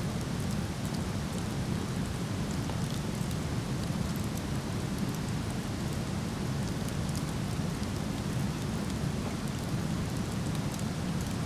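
Steady rushing of a distant waterfall, with small irregular crackles and pops from a wood fire burning in a fire pit scattered over it.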